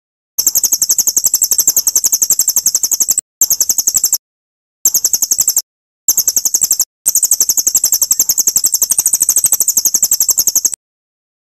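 A songbird's high, rapid trill of evenly repeated notes, about ten a second, delivered in five bursts with short pauses between them: recorded birdsong played as a masteran tutoring track for white-rumped shamas.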